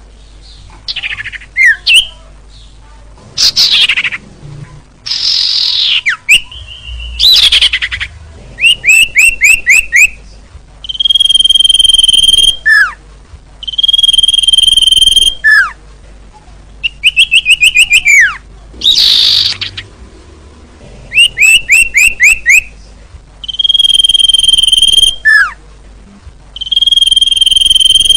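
Bird-lure recording of small songbirds calling in a repeating cycle: long steady whistles, short falling notes, and quick runs of five or six downslurred notes, with a few harsh rasping calls. The sequence plays loud and repeats every few seconds, as a looped lure track does.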